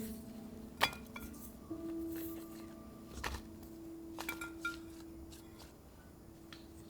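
Glass jars and containers clinking and tapping a few times as they are handled, with a soft held musical note lingering underneath.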